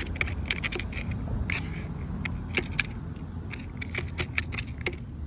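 Irregular light clicks and clinks, several a second, over a steady low rumble.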